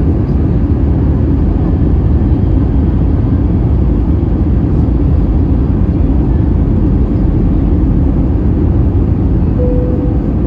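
Airbus A320 cabin noise in flight: a steady, loud, low rumble of engines and airflow. A short single tone sounds briefly near the end.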